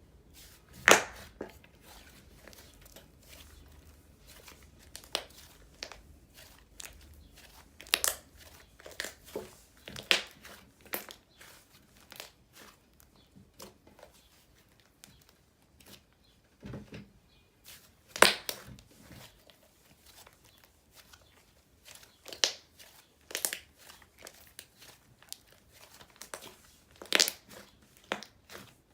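Hands squishing and stretching a soft, silky inflating slime, making irregular sticky clicks and pops, the loudest about a second in and about eighteen seconds in.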